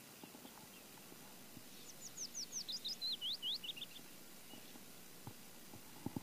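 A bird singing a quick run of about a dozen sharp, downslurred whistled notes lasting about two seconds, starting high and dropping lower towards the end of the phrase, over a faint outdoor background.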